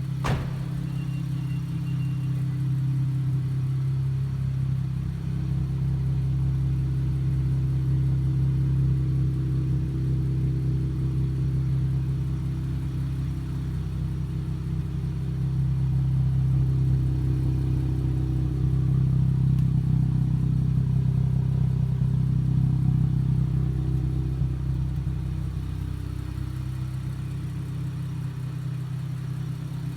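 Infiniti Q60 Red Sport 400's 3.0-litre twin-turbo V6 running through a NISMO sport exhaust with no mufflers: a steady low drone that swells gently about halfway through and eases off near the end. A sharp click comes right at the start.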